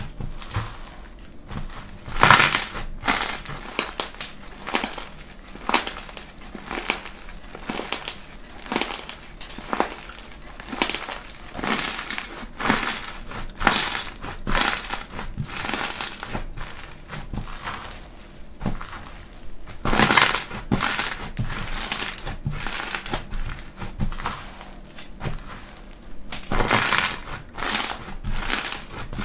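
Slime being pressed and squeezed by hand, giving a dense run of crisp crackles and pops, with louder clusters about two seconds in, around twenty seconds in and near the end.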